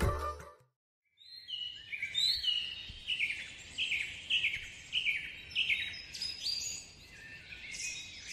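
Birds chirping: a run of short, falling chirps, roughly two a second, starting about a second in, with a faint outdoor hiss behind them.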